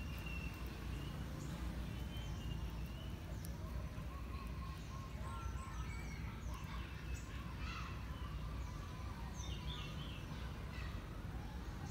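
Birds chirping and calling in the background, many short high chirps scattered throughout, over a steady low rumble.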